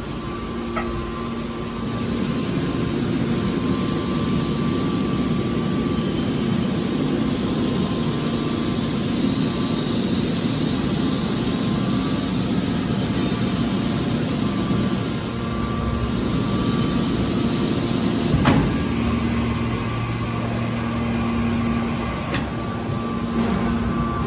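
Scrap metal baler and factory machinery running with a steady hum and noise, with a sharp metallic knock about three-quarters of the way through and a lighter one shortly after.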